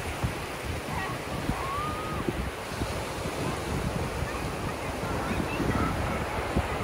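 Ocean surf washing onto a sandy beach, with wind buffeting the microphone in low gusts. A few faint, short high calls come through over the surf.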